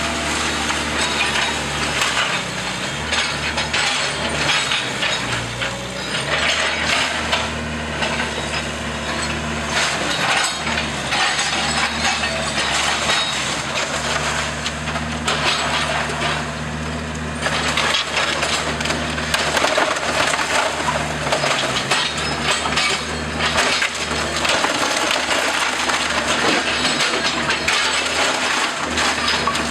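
Old wooden house timbers being crushed and splintered during demolition: continuous cracking and crunching of wood, with a steady engine hum underneath.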